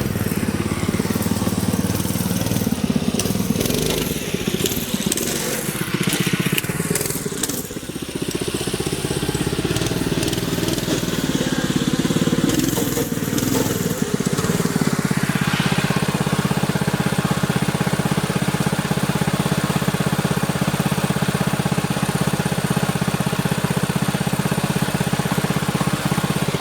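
Mini bike's small engine running, its pitch rising and falling with the throttle over the first half, then holding steady at idle from about halfway through, with a rough, noisy clatter along with it.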